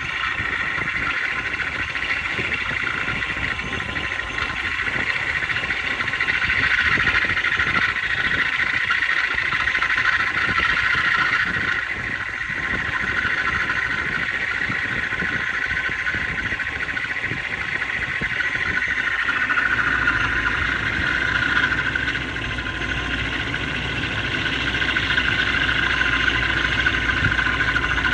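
A loud, steady mechanical whine, with a deep hum cutting in about two-thirds of the way through. The noise comes and goes every few minutes, like a pump starting and stopping.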